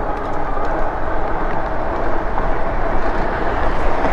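Steady rumble of wind on the microphone and tyre noise from riding a Lectric e-bike along the road, with a faint steady whine underneath.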